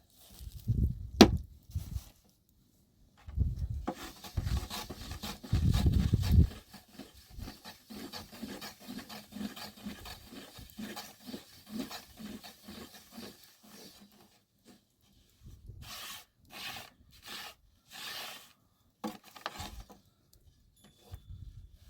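Rubbing and scraping on wood, with a few heavy knocks and one sharp click in the first seconds. A regular stroking rhythm of about two strokes a second follows, then several short separate strokes near the end.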